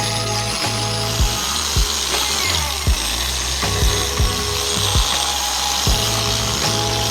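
Electric power tool running steadily as it works a plastic headlight lens during restoration, with background music keeping a steady beat of about two thumps a second.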